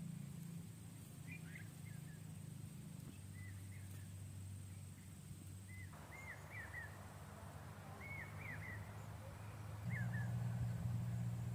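Birds chirping in short, scattered calls over a steady low hum; a soft hiss joins about six seconds in.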